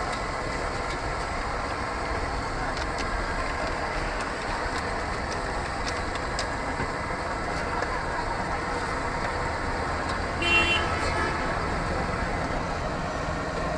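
Street traffic noise, with a vehicle horn sounding once, briefly, about ten and a half seconds in.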